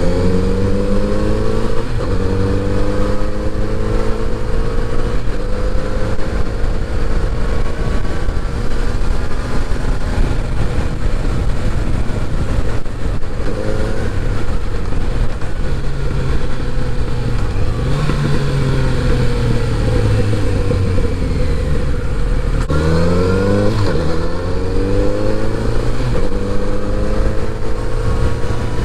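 Kawasaki Z900RS's inline-four engine under way. The revs climb and drop back at upshifts near the start and again about 23 seconds in, with steadier running in between, over a constant rush of road and wind noise.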